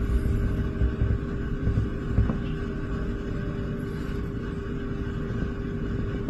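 Low, steady rumble with a faint constant hum over it.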